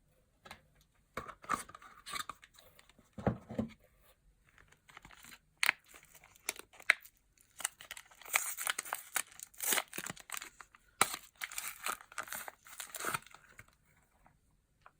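Packaging crinkling and tearing by hand as soap is unwrapped, in irregular rustling bursts with sharp crackles, busiest in the second half and stopping near the end.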